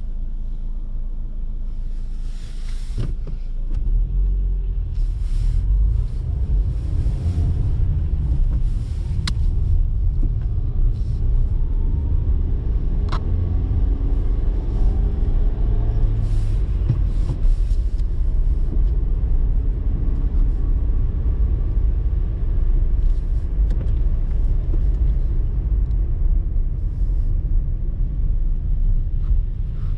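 A car driving, heard from inside the cabin: a steady low rumble of engine and tyres on the road, with the engine note gliding up and down through the middle as the car changes speed.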